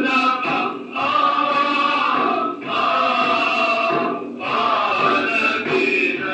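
Men's voices chanting an Iraqi manqaba, a devotional praise of the Prophet, together in long held phrases with short breaks between them. The recording is an old home recording with a dull, narrow sound.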